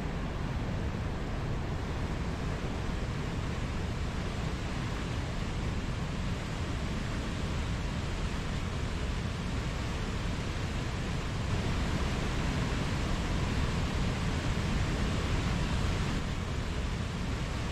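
Mountain stream rushing steadily over rocks, a continuous even rush of water that swells a little past the middle.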